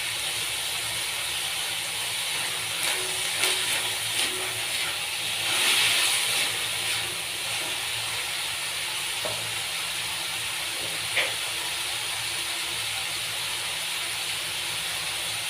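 Minced chicken and potato frying in hot oil in a pan: a steady sizzle that swells for a second or so about six seconds in. A few light clicks and one sharp tick about eleven seconds in.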